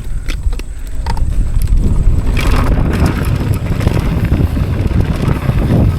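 Wind buffeting the microphone as a downhill mountain bike runs fast over a rough trail, with a steady low rumble, louder from about a second and a half in, and scattered rattling clicks from the bike over bumps.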